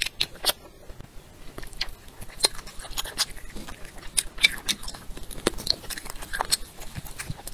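Close-miked chewing and biting as a person eats shrimp: irregular sharp wet mouth clicks and crunches, several a second.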